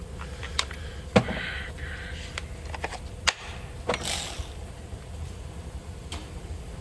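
Several sharp metallic clicks and knocks from tools and parts being handled, the loudest about a second in, with a short hiss about four seconds in, over a steady low hum.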